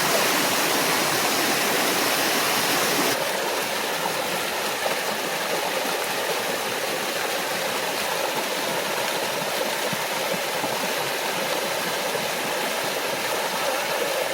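Small forest waterfall and stream rushing steadily. About three seconds in, the rush changes abruptly and becomes slightly softer and less hissy.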